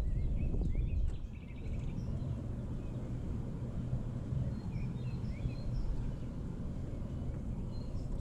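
Small songbirds chirping in short repeated notes, with a brief trill about two seconds in, over a steady low outdoor rumble.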